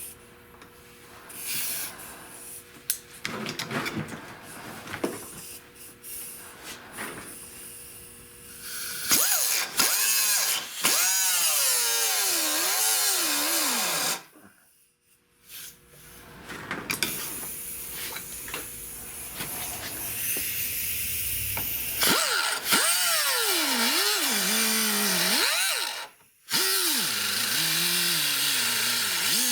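Handheld power tool working sheet metal in three runs, its pitch sagging and recovering as it bites, stopping near the middle and again shortly before the end. Before it starts, several seconds of clinks and knocks of metal parts being handled.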